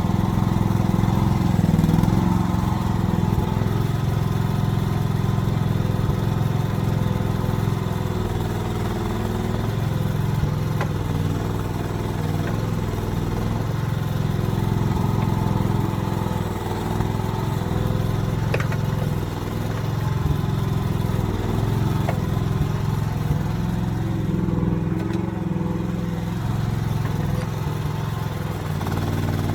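Small engine of an AGT mini excavator running steadily, its pitch shifting slightly now and then as the machine works.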